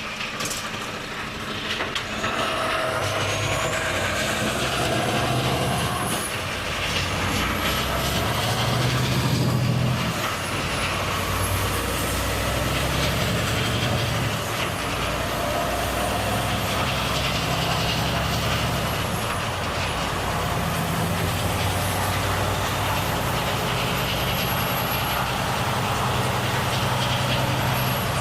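Volvo FH truck's diesel engine pulling and running on the road, its note growing louder about two seconds in and shifting several times, with a high whine that dips every few seconds. A short hiss of air brakes sounds about ten seconds in.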